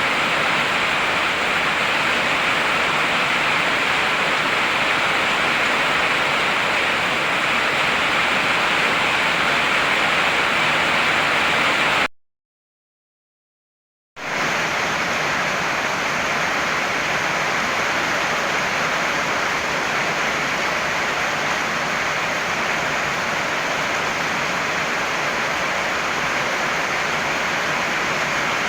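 Heavy rain falling, a steady dense hiss. It cuts out to silence for about two seconds partway through, then resumes.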